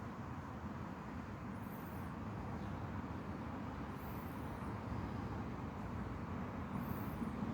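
Steady low outdoor rumble, like distant road traffic, with a very high, thin chirp heard four times, about every two to three seconds.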